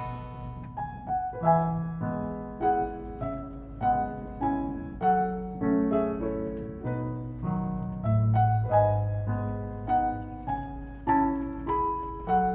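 Background piano music: a gentle melody over chords, with a new note or chord struck about every half second.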